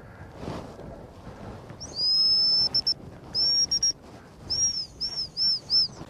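Dog-training whistle giving commands to a working springer spaniel: a long blast about two seconds in, two short pips, a second long blast, then four quick pips near the end.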